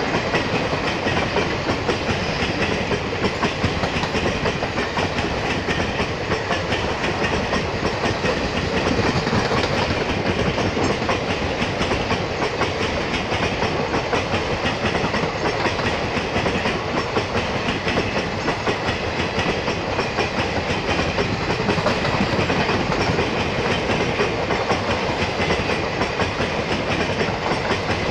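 Indian Railways express passenger coaches running past at speed: a steady, rapid clickety-clack of wheels over the rail joints.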